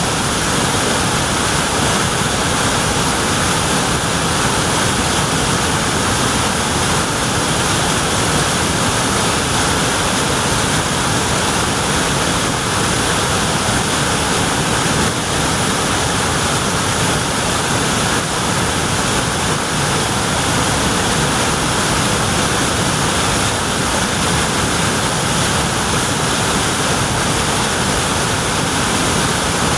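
Waterfall rushing down a mountainside: a loud, steady roar of falling water.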